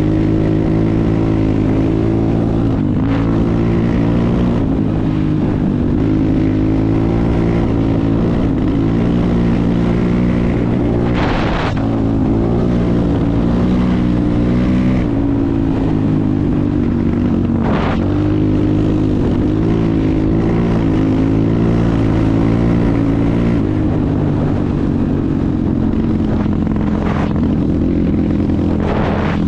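Enduro motorcycle engine running while riding, its pitch rising and falling with the throttle, with a couple of brief rushes of noise about 11 and 18 seconds in.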